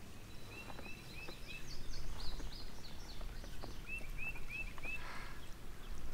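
A songbird singing: a phrase of four quick, evenly spaced slurred whistled notes, a higher run of similar notes, then another phrase of four. A low rumble sits under it from about two seconds in.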